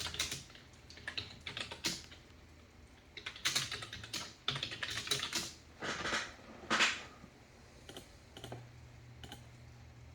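Typing on a computer keyboard in quick bursts of key clicks, with pauses between them and only a few scattered clicks near the end.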